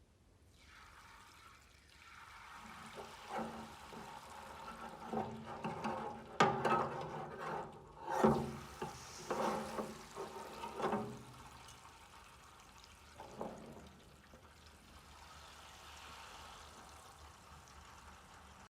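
Liquid pouring and sloshing, with a run of sharp knocks in the middle stretch, then a quieter steady splashing.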